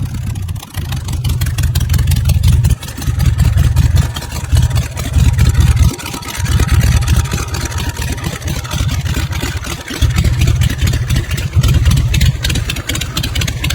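Big motorcycle engines running and revving loudly, in several stretches broken by short gaps, like clips cut one after another.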